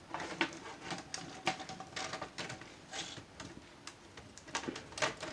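Irregular light clicks and taps of Dell Inspiron 3500 laptop parts being handled and fitted back into place, with a few sharper knocks in the second half.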